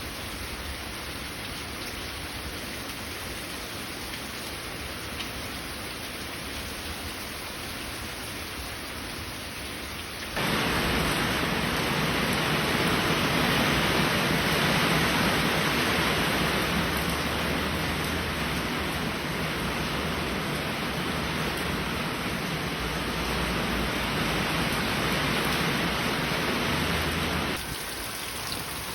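Steady heavy rainfall. About ten seconds in it switches abruptly to a louder, denser downpour, which drops back suddenly to the lighter rain near the end, as one recording is cut to another.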